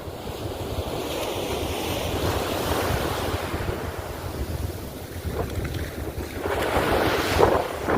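Ocean surf washing onto a beach, with wind buffeting the microphone. The wash swells and eases, and a louder wave surges in near the end.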